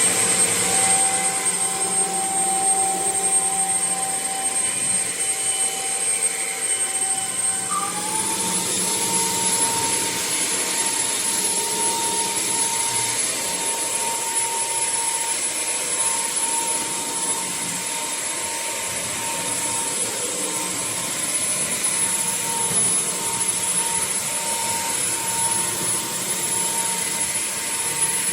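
Bissell CrossWave OmniForce cordless wet-dry vacuum's suction motor running: a steady high whine over rushing air. After several seconds the whine glides up a little in pitch and holds there.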